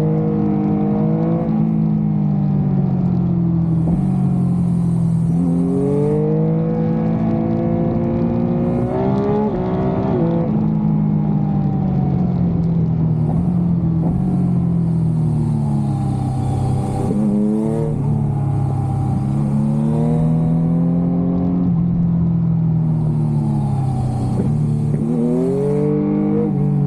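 Yamaha MT-09 SP inline-three motorcycle engine on the move, its revs rising and falling as the rider rolls on and off the throttle, with several quick revs about every eight seconds.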